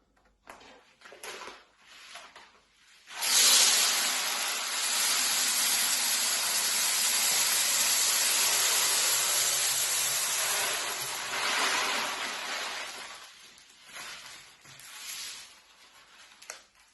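Dry rice grains pouring through a paper funnel into a plastic PET bottle: a steady rushing hiss that starts suddenly about three seconds in, runs for about ten seconds, then thins out into weaker trickles. Faint paper and bottle handling sounds come before it.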